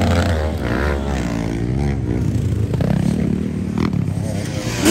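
Enduro dirt-bike engine revving up and dropping back in uneven bursts, with a sharp rise in revs near the end.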